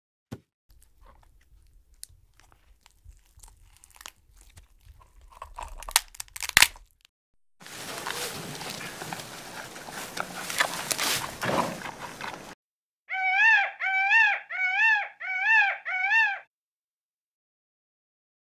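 Faint crunching from a tortoise biting grass, with a few louder cracks. Then a giant panda chewing bamboo, a dense crackling crunch for about five seconds. Then an Indian peacock calls five times in quick succession, each call a rising-then-falling wail.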